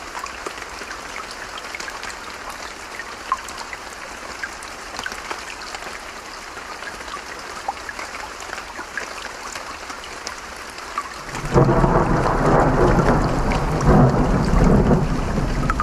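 Running stream and pattering rain, then about eleven seconds in a loud, deep roll of thunder breaks in and rumbles on.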